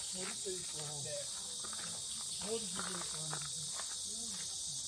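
Steady chorus of insects in a forest, an even high-pitched shimmer, with people talking faintly underneath.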